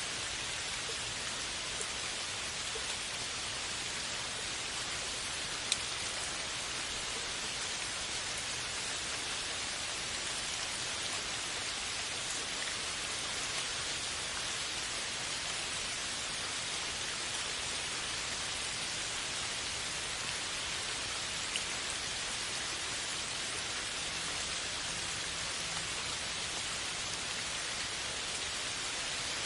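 Steady rain falling, an even hiss of many drops on a surface, with the odd single drop tick standing out about 6 s and 21 s in.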